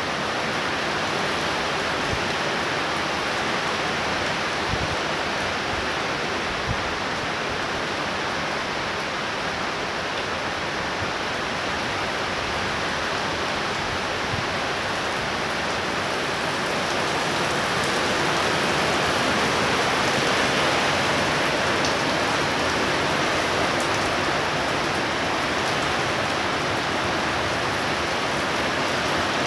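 Heavy rain falling steadily, growing a little louder for a few seconds past the middle.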